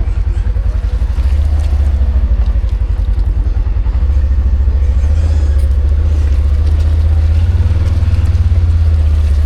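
A vehicle engine running close by with a low, rapid pulse, picking up speed slightly a few seconds in and again near the end.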